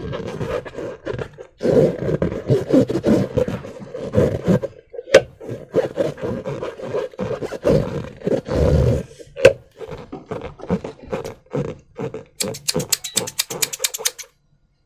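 Slime being squeezed and worked by hand, with wet squelches and irregular crackling clicks. Near the end comes a quick, even run of clicks, about eight a second, before the sound stops.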